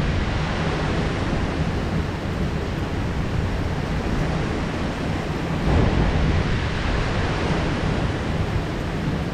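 Heavy rain downpour: a steady, dense hiss of pouring rain, swelling briefly about six seconds in.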